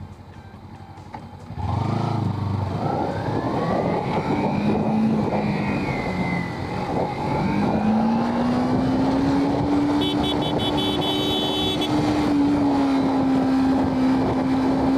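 A motorcycle riding along with the engine running and heavy wind and road noise. About two seconds in it gets suddenly louder, and the engine note rises slowly and then holds steady. A brief high-pitched tone sounds about ten seconds in.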